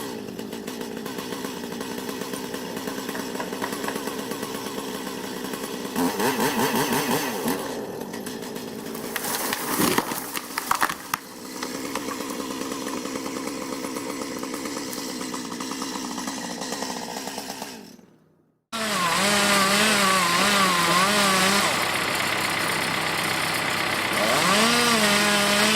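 Chainsaw running and revving up and down, with a sharp crack about ten seconds in, then fading out. After a brief silence a different sound starts, with a wavering pitch.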